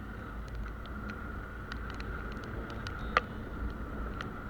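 Motorcycle on the move, heard from the rider's camera: a steady low rumble of engine and wind, with scattered light clicks and one sharper click about three seconds in.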